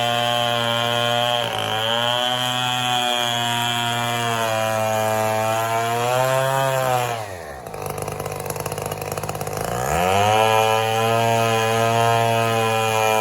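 Two-stroke chainsaw running at high speed, its pitch dipping and recovering as it cuts. About seven seconds in the throttle is let off and the engine falls to a low idle. Near ten seconds it is revved back up and runs on at full speed.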